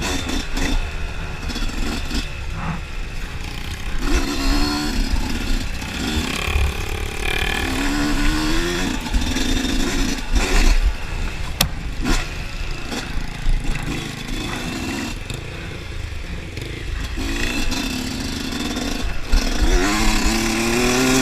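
Dirt bike engine revving up and down over and over, its pitch rising with each twist of the throttle, over a steady low rumble, with one sharp click a little past the middle.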